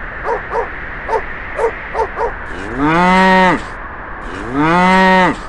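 A cow mooing twice, each moo rising and then falling in pitch and lasting just under a second. Before the moos comes a run of short, quick calls from another animal over a steady hiss.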